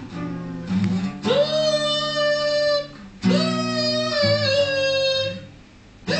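A voice wailing long, drawn-out notes over guitar: two held notes of about two seconds each, each sliding up at its start, with another beginning near the end.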